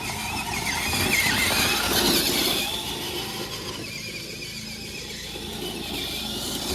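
Electric RC monster truck revving, its motor whine wavering up and down in pitch over a scraping noise as it drags a toy car along. It is loudest in the first couple of seconds, then eases off.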